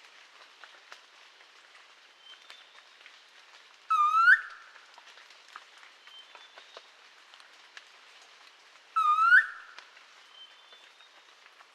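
Blue-naped pitta calling: two short, loud whistles about five seconds apart, each rising sharply at the end.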